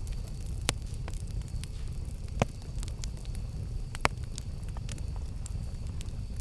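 Wood campfire burning: a steady low rumble of flames with scattered sharp crackles and pops, three of them louder than the rest.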